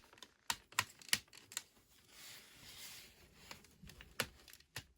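Hard plastic clicks and taps from handling a Transformers Lights and Sounds Optimus Prime action figure while its arms are moved, about seven irregular clicks with a soft rubbing rustle in the middle.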